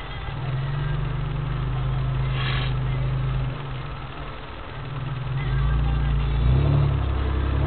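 Vehicle engine running as it drives slowly along a dirt track, heard from inside the cabin. It pulls harder about half a second in, eases off around the middle, then picks up again.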